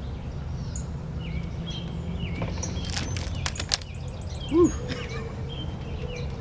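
Small birds chirping repeatedly over a steady low background rumble. About three seconds in comes a quick run of sharp snaps, rubber bands being stretched onto a watermelon.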